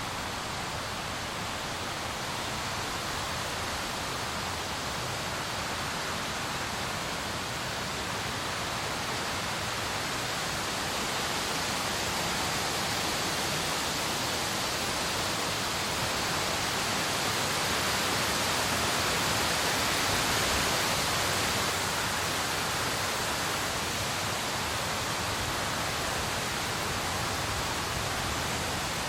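Steady rain falling, an even hiss that swells a little in the middle.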